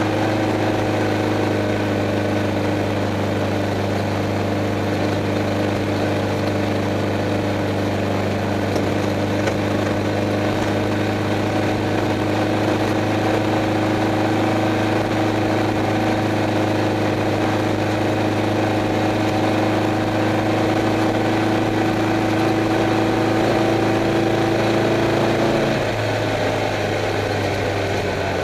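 Stock Volkswagen Beetle's air-cooled flat-four engine, heard from inside the car, running at a steady pitch with a constant noise over it; its note drops lower near the end.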